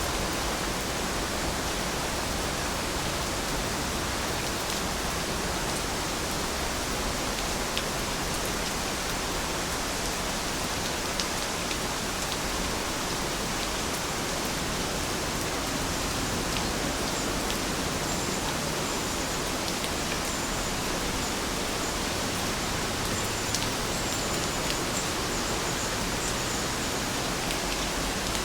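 Steady rain falling, an even hiss with scattered individual drop ticks; faint high chirps sound through it in the second half.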